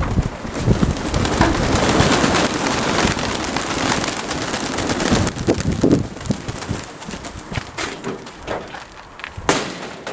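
Domestic pigeons cooing, with a rushing noise, such as gusty wind, over roughly the first half and a few short clicks later on.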